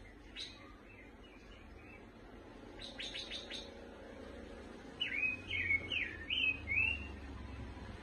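Caged pancawarna bird calling: a single chirp about half a second in, a quick run of four sharp notes around three seconds in, then a louder series of five or six short rising-and-falling whistled notes.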